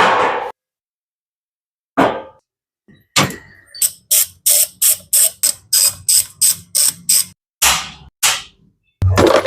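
Aerosol throttle body cleaner hissing in short, quick bursts, about three a second for a few seconds, then a few longer sprays, with a faint low hum beneath.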